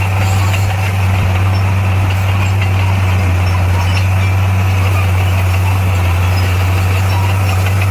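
Heavy diesel engine of earthmoving equipment running steadily, with an even low hum.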